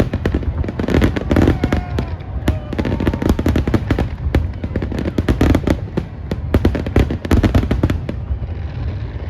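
Fireworks going off in rapid succession: a dense barrage of bangs and crackles over a deep booming rumble, thinning out near the end.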